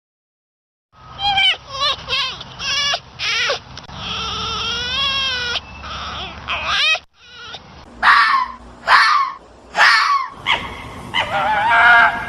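An animal's repeated high-pitched, wavering cries, some short and one drawn out, with a brief pause about seven seconds in.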